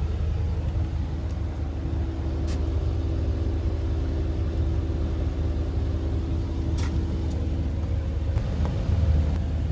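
A car idling while parked, heard from inside the cabin as a steady low hum with a few faint clicks.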